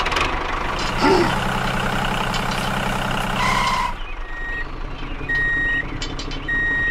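Heavy vehicle engine running with a reversing alarm beeping; the engine noise drops away about four seconds in, leaving short high beeps.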